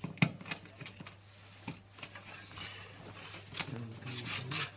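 A string of handling clicks and knocks, the sharpest about a quarter second in, with light rustling between them.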